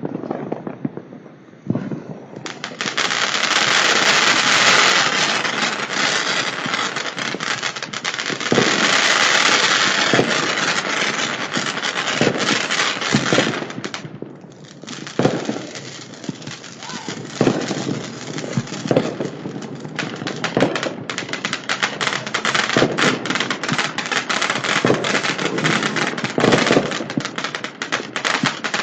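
Commercial-grade fireworks going off: about ten seconds of dense, continuous crackling and hissing, then, after a brief lull, a rapid string of bangs and crackles.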